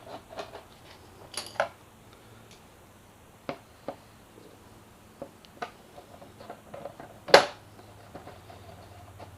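Scattered small clicks and metallic taps of hand tools and screws as a plastic upper fairing panel is screwed onto a motorcycle, with one louder sharp knock about seven seconds in.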